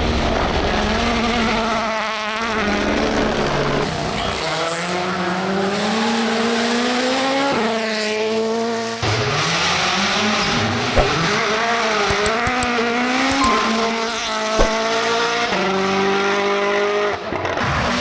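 Rally car engines at full throttle, their pitch climbing through the gears and dropping back at each shift, over a haze of tyre and gravel noise. There are two sharp cracks partway through.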